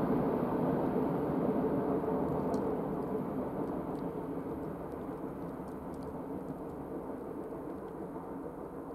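Freight train rumbling steadily, wheels on rail, slowly fading as it moves away, with a few faint high clicks.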